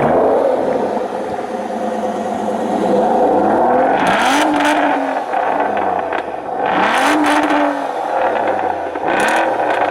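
Aston Martin DBS's V12 running just after start-up, its throttle blipped three times so the revs rise and fall about four, seven and nine seconds in.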